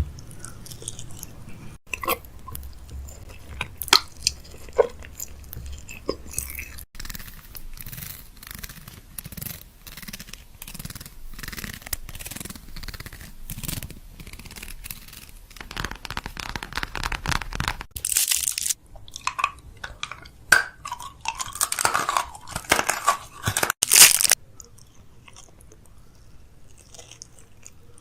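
Food packaging and containers being handled while restocking a fridge: crinkling and crunching with many sharp clicks and knocks. Two longer stretches of rustling noise come about two-thirds of the way through, and the sound changes abruptly several times as one clip cuts to the next.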